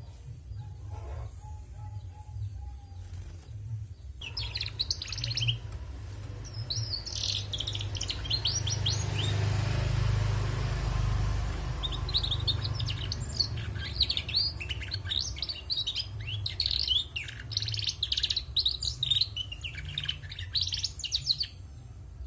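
Female canary twittering in quick runs of high chirps, starting about four seconds in, breaking off for a few seconds halfway, then resuming until near the end. A low rumbling noise swells and fades in the middle, under a steady low hum.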